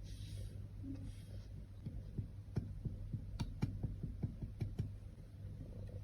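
Light clicking taps, several a second, from about two seconds in until about five seconds in, after a faint hiss at the start; typical of small tools handling a cosmetic during makeup repair.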